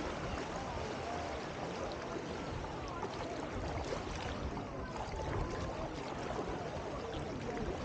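Sea water washing and trickling at the shoreline, steady throughout, over a low rumble.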